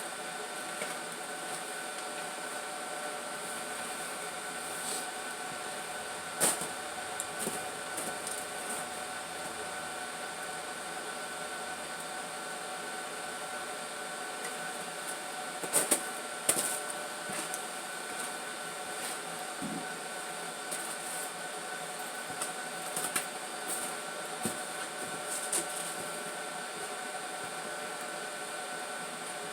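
1974 Plymouth Duster's slant-six engine running steadily after a cold start, just given a little gas to keep it going, with a few short knocks over the steady drone.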